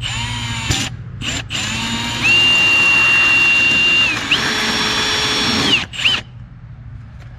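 Power drill running in reverse to start a hole through the house siding, so the bit won't tear it. Two short spurts, then a longer run of about four seconds: the motor whine steps up in pitch, dips briefly midway, and cuts off about a second before the end.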